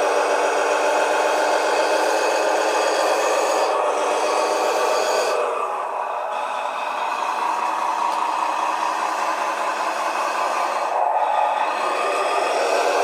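RC bulldozer's add-on sound unit playing a simulated engine sound through a small speaker. The engine note drops about five seconds in and climbs again near the end.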